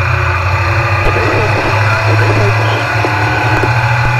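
Stock car engine running with a steady, loud drone that holds an even pitch.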